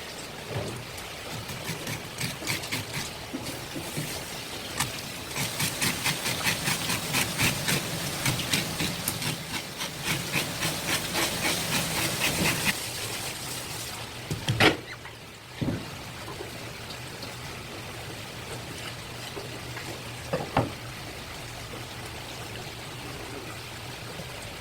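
A knife working on a fish: a quick run of scraping strokes, about three a second, for several seconds, then a few single sharp knocks.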